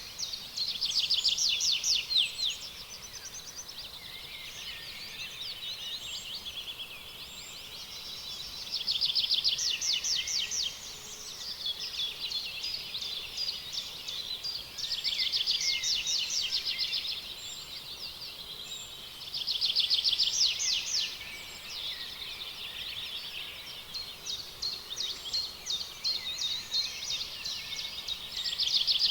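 Birdsong: rapid high trills come in louder bouts of about two seconds every five or six seconds, over softer continuous chirping.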